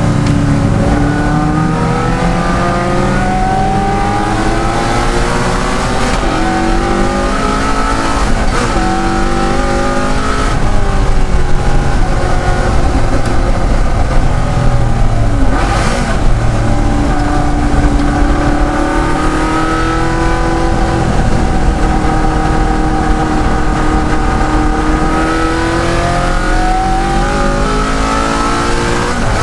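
De Tomaso Pantera race car's Ford V8 at racing speed, the engine pitch climbing under acceleration and dropping on lifts and downshifts, with several gear changes along the way.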